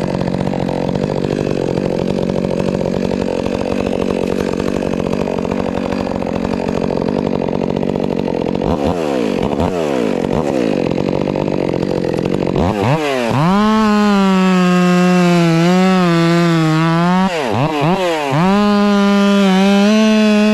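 Stihl MS 400 C two-stroke chainsaw running at high revs. For about the first eight seconds it is cutting through wood, with a rough, noisy note. The revs then fall off twice and climb back to a steady high whine, dipping briefly once more near the end.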